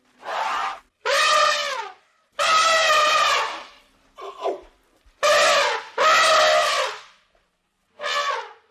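An animal giving a series of loud, pitched calls, about six of them, each roughly a second long and dipping in pitch at its end.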